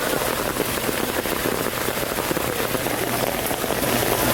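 Heavy rain falling steadily, a dense patter of drops on hard surfaces.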